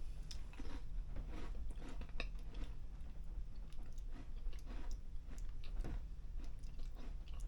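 A person chewing a bite of smoked Gouda close to the microphone: irregular soft mouth clicks and smacks over a low steady hum.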